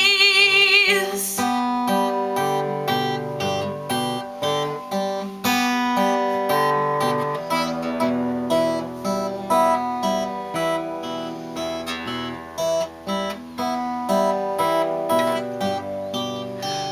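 Acoustic guitar strumming an instrumental break in a folk waltz. A held, wavering sung note dies away about a second in.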